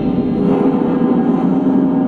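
Giant metal spring resonating through a contact mic: a dense, steady metallic drone of many held tones over a low rumble, gong-like, with no distinct strikes.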